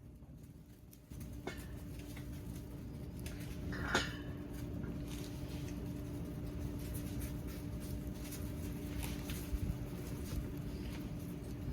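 Wood fire crackling steadily with scattered small pops, over a faint steady hum, stepping up in level about a second in; one sharper snap about four seconds in.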